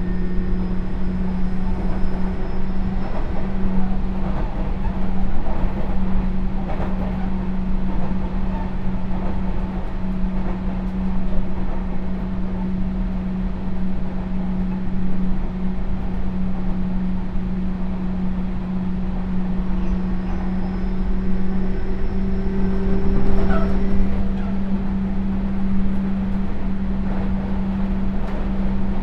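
Running sound of a Sotetsu New 7000 series electric train with Hitachi GTO-VVVF inverter control: a steady rumble of wheels on the rails under a constant low hum. A fainter whine from the traction equipment comes in near the start and again about twenty seconds in.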